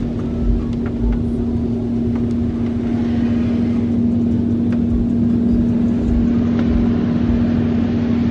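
A steady mechanical drone: a constant hum over a rumble, with a few faint ticks.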